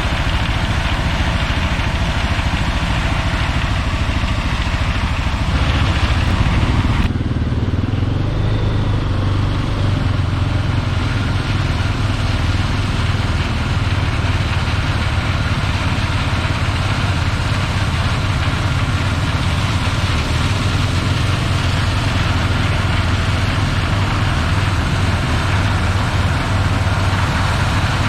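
Heavy farm machinery engines running steadily during corn harvest, with a strong low hum. The sound changes abruptly about seven seconds in, as the higher hiss drops away and the low hum deepens.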